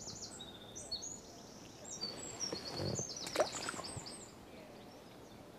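A small songbird singing in quick, high trilled phrases, which stop about four seconds in, over quiet outdoor background. A couple of faint knocks sound around the three-second mark.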